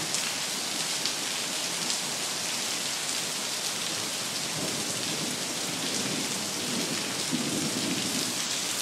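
Heavy rain pouring down in a steady hiss, with low thunder rumbling in the second half. The sound cuts off suddenly at the end.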